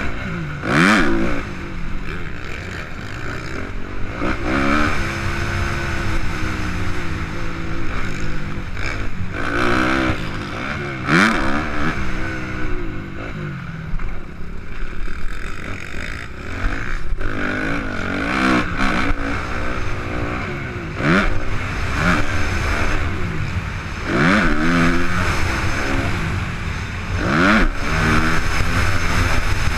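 Suzuki RM-Z 250 four-stroke single-cylinder motocross bike running hard around a dirt track, its engine revving up and dropping back again and again as it accelerates out of turns and over jumps, with occasional knocks and clatter.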